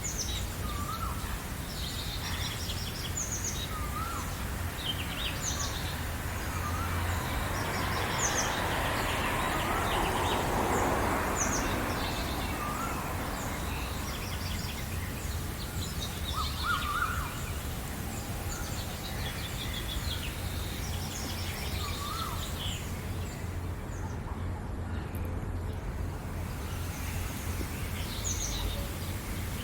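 Several wild birds chirping and singing in a spring morning chorus, one of them repeating a short call about every two seconds, over a steady low background rumble. A rushing swell of noise rises and fades about ten seconds in.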